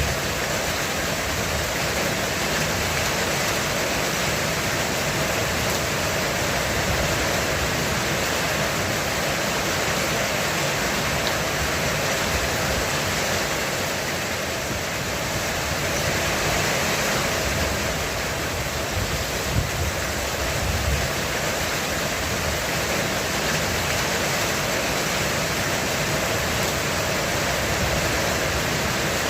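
Heavy rain drumming steadily on a roof: a dense, even hiss of countless drops.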